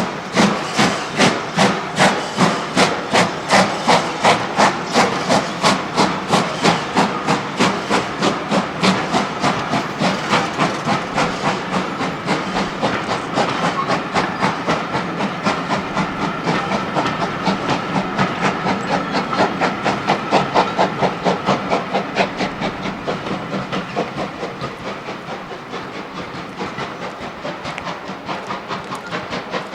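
Steam locomotive working hard, its exhaust beating steadily at about two to three beats a second over a hiss of steam, gradually fading toward the end as it draws away.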